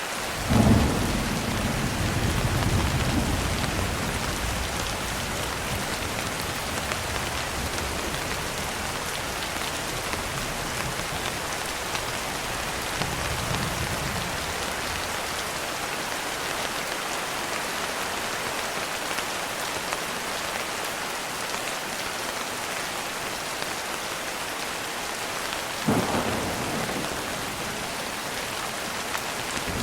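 Steady rain with thunder: a sharp thunderclap about a second in that rolls into a low rumble for a few seconds, a fainter low rumble midway, and another crack of thunder near the end.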